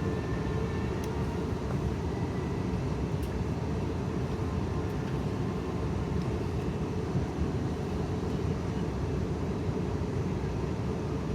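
Steady low rumble inside the cabin of an Airbus A321neo, the even drone of the airliner's engines and airflow heard from a passenger seat.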